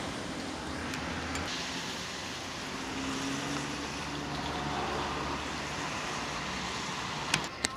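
Road traffic: a car engine running and turning near a road closure over a steady rushing noise, with two sharp clicks near the end.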